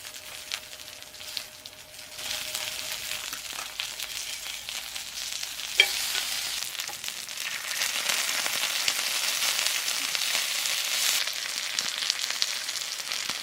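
Food sizzling and crackling in a hot pan while it is stirred, the sizzle growing louder about two seconds in. A single sharp click about six seconds in.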